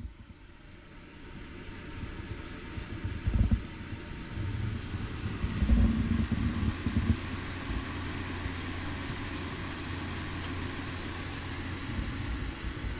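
A truck driving: a steady low rumble with road noise that builds over the first couple of seconds, with a few louder knocks about three and a half and six seconds in.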